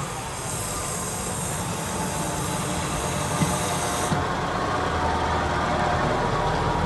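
ScotRail Class 158 diesel multiple unit passing close by, its underfloor diesel engines running with a steady low drone. Two sharp clicks come about halfway through, typical of wheels going over rail joints, and a high hiss cuts off shortly after.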